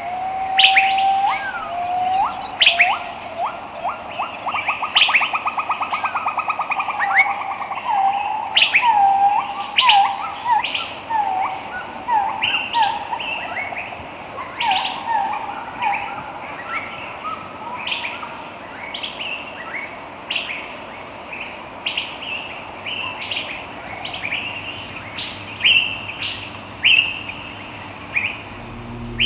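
Several birds singing and chirping, with a fast trill a few seconds in followed by many short repeated chirps and calls that overlap one another.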